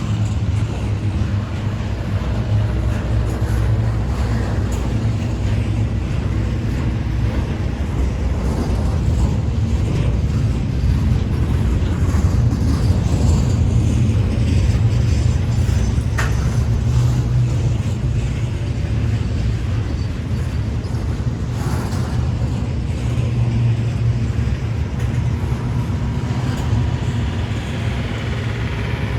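Norfolk Southern intermodal freight train rolling past, a steady low rumble of wheels on rail with a few sharp clicks.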